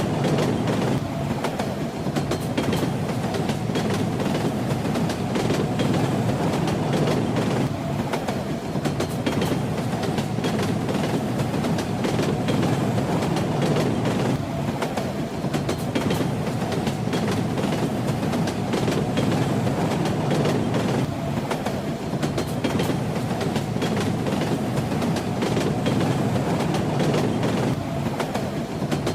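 Train running on rails: a steady running noise with the wheels rattling and clacking over the track.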